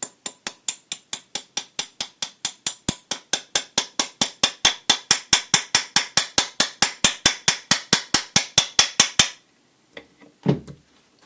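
Hand ratchet tool clicking at an even pace of about five clicks a second, then stopping abruptly with about two seconds left; two soft knocks follow.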